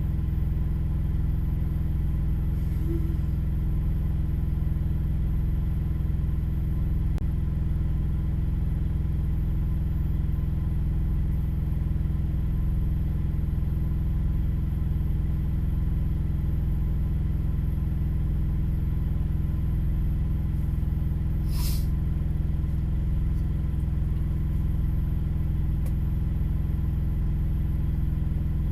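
A vehicle engine idling with a steady low rumble, heard from inside the cab. A brief, sharp high-pitched sound stands out about three-quarters of the way through.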